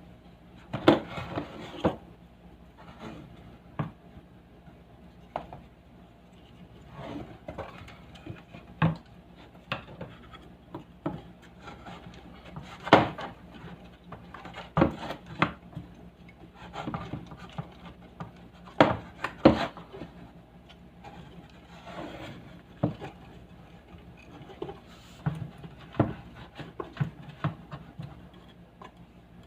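Irregular knocks, taps and rubbing of hard objects being handled, some sharper than others, over a faint steady low hum.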